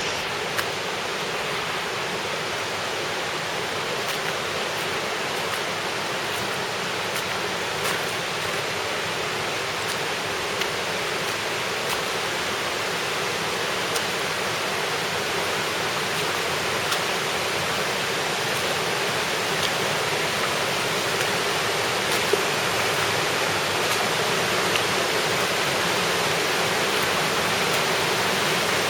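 Creek water rushing steadily over a waterfall in a slot canyon, growing slightly louder over time.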